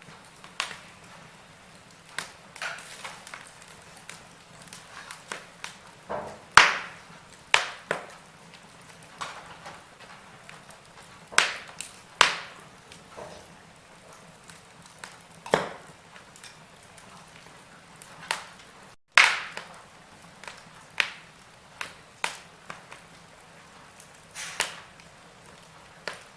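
Wood fire crackling in a fireplace: irregular sharp pops and snaps, a few of them loud, over a faint steady hiss.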